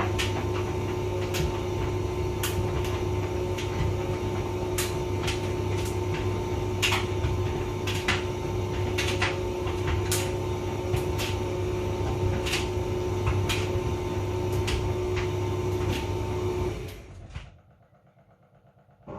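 Hotpoint vented tumble dryer running: a steady motor and fan hum with the drum rumbling, and irregular light clicks and knocks from the load tumbling inside. About two seconds before the end the sound winds down and stops, leaving near silence.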